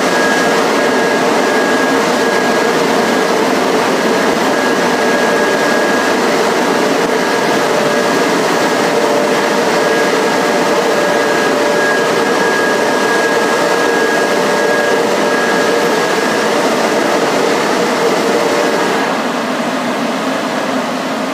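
MacNeil car wash tunnel machinery running: a loud, steady rushing roar with a steady high whine over it, easing off near the end.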